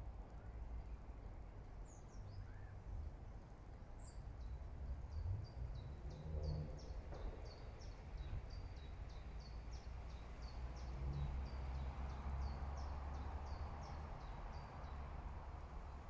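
A small bird singing a long run of short, high, falling notes, about two a second, starting about four seconds in, over a low steady rumble.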